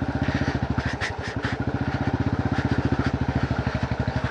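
Royal Enfield Bullet's single-cylinder engine running under way, with a steady, rapid thumping exhaust beat.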